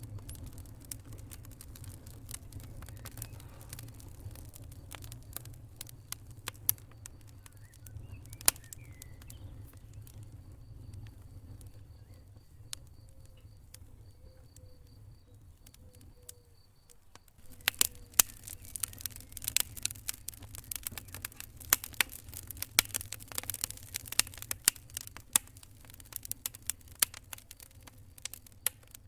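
Wood fire crackling in a fireplace, scattered sharp pops over a low steady rumble. A little past halfway the crackling turns much denser and brighter.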